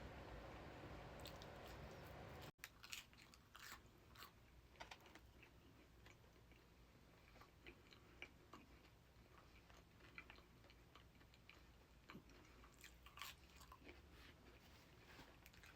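Quiet close-up chewing of a person eating, with scattered small wet mouth clicks. A steady hiss at the start cuts off abruptly about two and a half seconds in.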